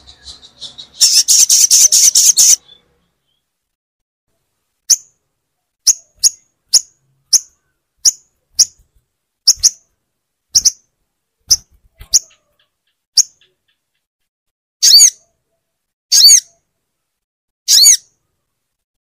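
Sogon bird calling: a fast rattling burst of high chirps about a second in, then a string of short, sharp single notes spaced half a second to a second apart, and near the end three longer calls that bend in pitch.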